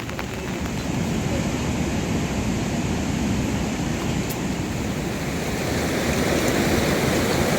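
Steady rushing of water, dense and deep, growing a little louder in the last couple of seconds.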